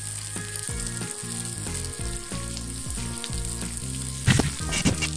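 Garlic, onion and green and dried red chillies sizzling as they fry in mustard oil in a pan. About four seconds in, a louder scrape as a silicone spatula stirs them across the pan.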